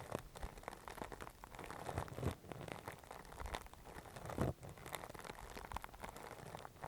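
Close-miked ASMR ear-cleaning sounds: scratching and rubbing that comes across as dense, irregular crackling and small clicks, with one louder scrape about four and a half seconds in.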